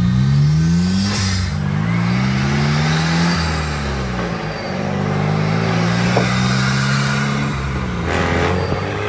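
VUHL 05's turbocharged engine pulling hard through the gears: its note climbs in pitch, drops back at each upshift and climbs again, several times over.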